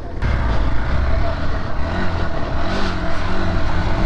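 Dirt bike engine running on the throttle, its pitch rising and falling as the rider works it, over a low rumble.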